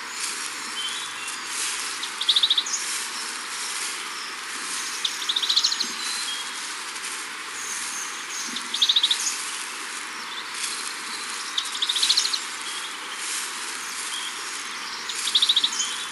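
Forest ambience: a bird repeats a short run of rapid high notes about every three seconds, with fainter chirps between, over a steady background hiss.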